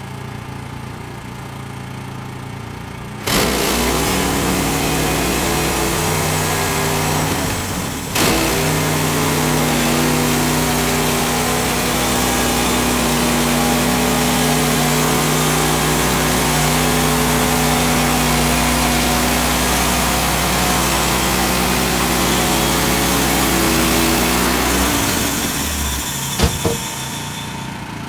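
A Woodland Mills HM130 band sawmill's gas engine idles, then is throttled up about three seconds in to drive the band blade through a spruce log. The engine and cutting noise run steadily, with a brief dip near eight seconds. Near the end the engine drops back toward idle, and there are two sharp knocks.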